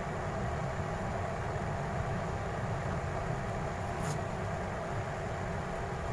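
Steady low rumbling background noise, with one faint click about four seconds in.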